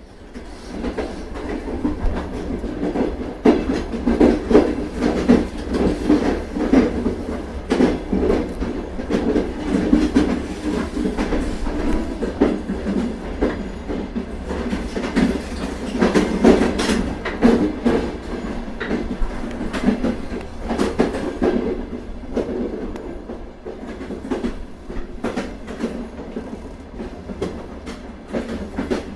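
Continuous rumbling running noise, dense with irregular sharp clicks and knocks, louder in the first half.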